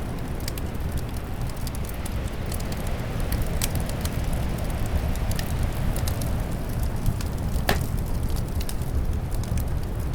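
Wood fire in a fireplace crackling, with irregular small pops and one sharper crack near eight seconds in, over a steady low rush of winter wind.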